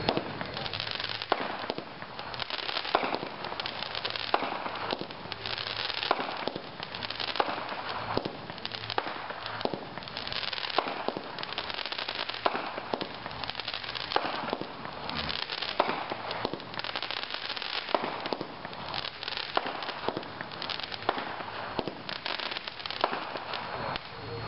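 A Brothers Americana 500-gram consumer fireworks cake firing its shots, about one a second, each followed by crackling.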